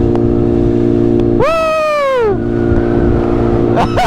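BMW S1000RR inline-four engine running at a steady cruise, holding one even pitch, with a low rush of wind noise underneath.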